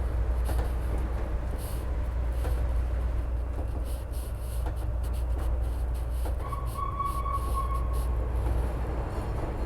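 CTA rapid-transit train running on track: a steady low rumble with scattered clicks of the wheels over the rail. About two-thirds of the way in, a brief, steady high tone sounds for a second or two.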